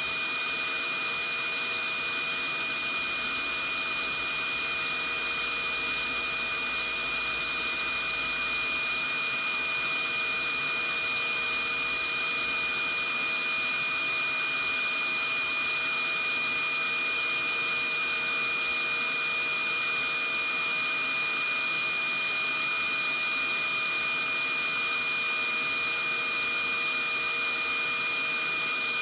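Vacuum cleaner running steadily: an even rushing hiss with a fixed high-pitched motor whine over it, unchanging throughout.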